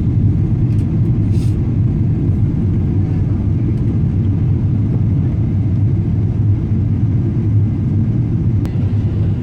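Steady low rumble of a Boeing 777-200 heard from inside the passenger cabin, with a few faint clicks and a brief hiss about a second and a half in.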